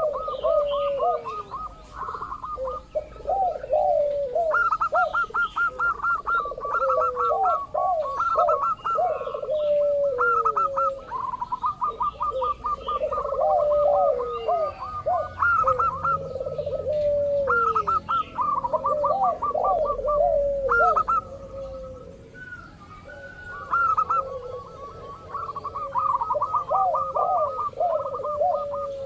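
Zebra doves (perkutut) cooing continuously in overlapping calls. Rapid runs of short, higher notes sound over lower, falling coos that come in repeated phrases.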